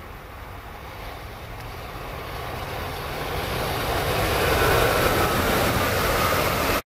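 A Tokaido Shinkansen high-speed train passing at speed: a rushing noise of wheels and air that grows steadily louder over several seconds as it comes close, then cuts off abruptly.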